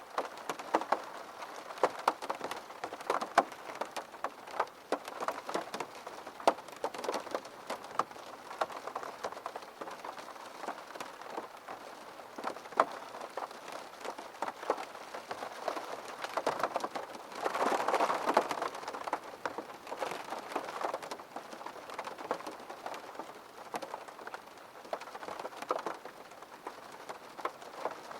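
Rain pattering against a window pane, many separate drops ticking on the glass over a steady hiss. About two-thirds of the way through there is a brief heavier spell.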